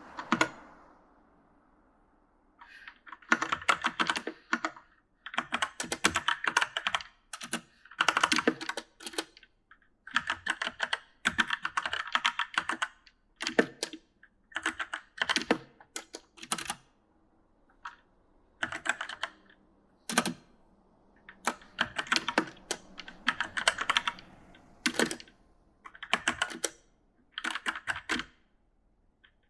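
Typing on an E-Element mechanical gaming keyboard: rapid key clicks in uneven runs of one to two seconds, broken by short pauses.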